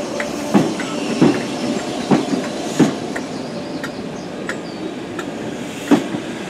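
Merseyrail electric multiple unit running past along the platform, its wheels clacking over rail joints at a regular beat with a pause of a few seconds in the middle.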